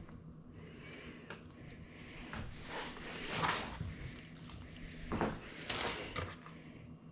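Kitchen handling noises while preparing food: a series of short knocks, scrapes and rustles, a second or so apart, over a faint steady hum.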